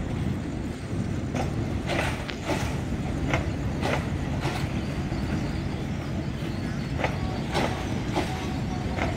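Passenger train rolling slowly through a station, a steady low rumble with repeated sharp clacks from its wheels passing over the rail joints.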